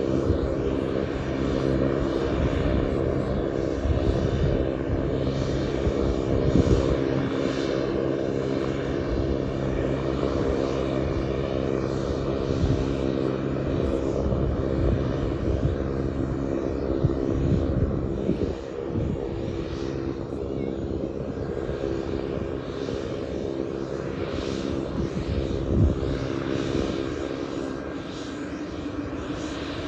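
Pilatus PC-12's single turboprop engine and propeller running, a steady drone of several stacked tones that eases slightly in level a little past halfway.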